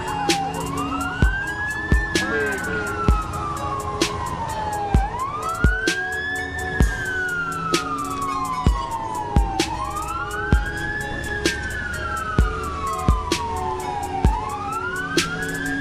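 Emergency vehicle sirens wailing, each cycle a quick rise and a long slow fall about every four and a half seconds, with a second siren slightly out of step. A steady thumping beat runs underneath, about one and a half thumps a second.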